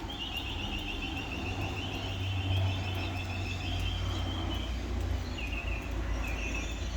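A high, rapidly pulsed animal call repeating in long trains over a low steady rumble, with a short break about five seconds in.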